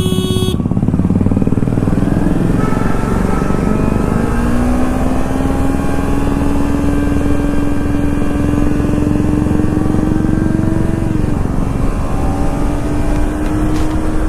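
Kawasaki Ninja 300's parallel-twin engine running under way, its note climbing slowly from about four seconds in, with a brief dip in pitch about eleven seconds in, over steady wind rush. A brief high tone sounds right at the start.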